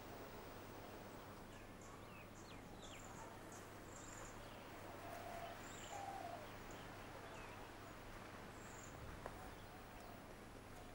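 Faint birdsong over a steady low hiss: many short high chirps and a few thin falling whistles, with two lower, longer calls about five to six seconds in.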